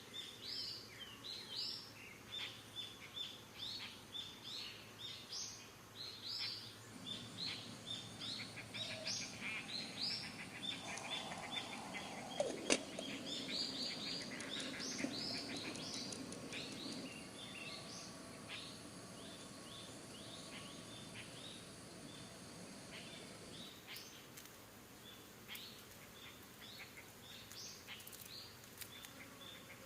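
Birds calling with rapid, repeated short high chirps, dense through the first half and thinning out later. A single sharp click about twelve seconds in.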